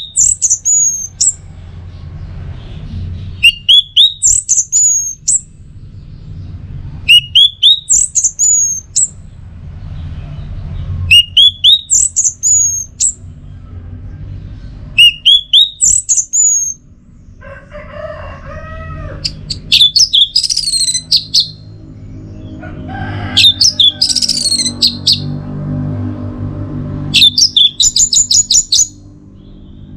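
Orange-headed thrush (anis merah) singing loud, high phrases. The same phrase, a quick run of short notes ending in rising whistles, repeats about every four seconds. Past the middle the song turns more varied, with a lower warbled phrase and a rapid trill near the end, over a low steady rumble.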